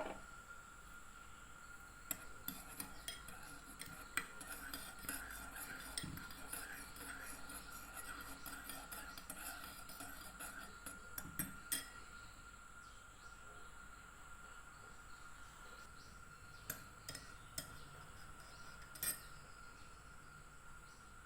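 Light clinks and taps of kitchen utensils and dishes, closely spaced for the first half and only a few scattered ones later, over a faint steady high-pitched tone.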